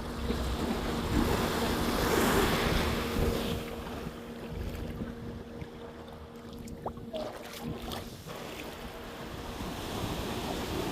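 Sea waves washing up on a sandy beach, with wind buffeting the microphone. The wash swells about two seconds in and eases off after about four seconds, over a faint steady hum.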